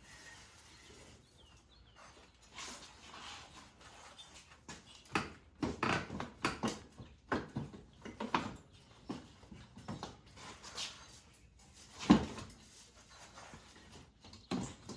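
Irregular clunks, scrapes and rustles of hands-on work on a motorcycle, with one sharp knock about twelve seconds in.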